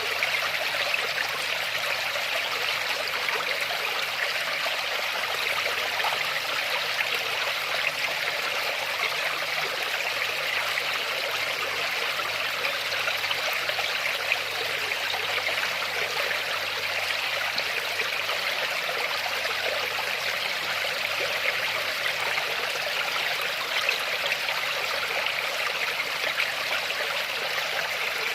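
Waterfall running steadily: a continuous, even rush of falling and splashing water with no breaks.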